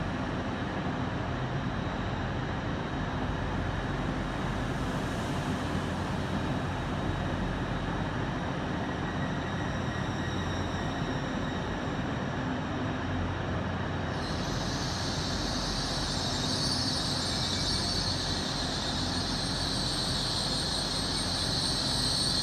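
LNER Azuma electric multiple-unit train moving slowly along the platform, a steady low hum. About fourteen seconds in, a loud high-pitched hiss joins it.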